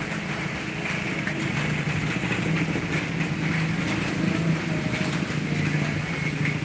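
Heavy rain and wind, with a vehicle engine running steadily underneath as a low hum.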